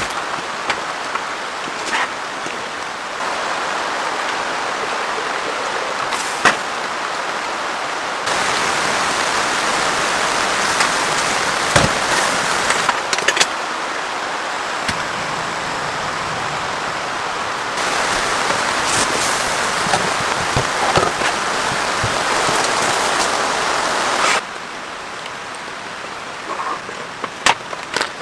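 Heavy rain falling steadily, with scattered sharp drop impacts. The level and tone of the rain shift abruptly several times.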